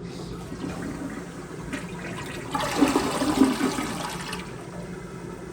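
Toilet being flushed, with a rush of water that swells about two and a half seconds in and dies away after about four and a half seconds. It is flushed to test whether the brown, discoloured water in the supply lines has cleared.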